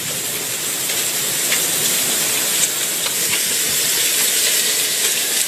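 Heavy hail and rain coming down as a loud, steady hiss, with a few sharp hits of hailstones standing out.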